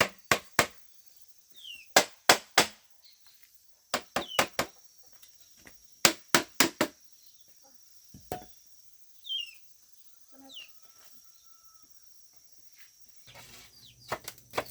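Repeated sharp blows of a tool striking bamboo, in quick groups of three or four about every two seconds, stopping after about eight seconds. Short bird chirps sound between the groups, and chickens cluck near the end.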